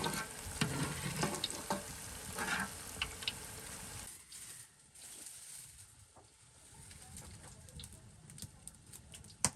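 Food frying in a pan, sizzling, with a utensil stirring and scraping through it. About four seconds in, this cuts off suddenly and gives way to a quiet background with a few faint clicks.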